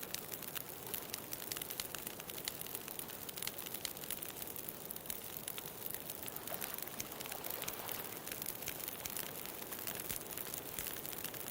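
Wood bonfire crackling, with many small sharp pops in irregular succession, over a steady rushing hiss of ocean waves.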